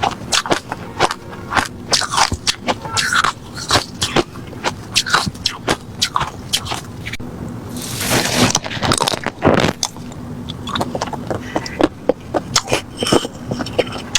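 Close-miked crunching of refrozen crushed ice being bitten and chewed: quick irregular sharp cracks, several a second, with a longer grinding crunch about eight seconds in.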